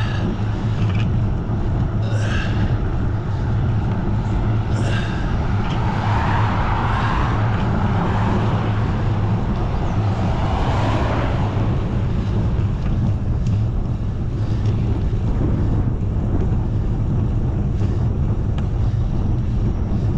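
Wind rushing over the microphone of a cyclist riding at speed, a steady low rumble, with a swell of rushing noise around the middle that fades again.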